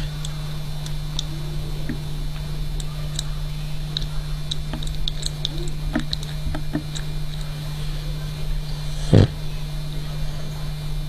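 French bulldog snoring in its sleep over a steady low hum, with one short, louder snore about nine seconds in.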